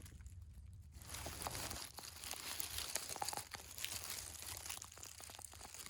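Close crunching and crinkling rustle of dry leaf litter and twigs being shifted on the ground, thick with small crackles, loudest in the middle.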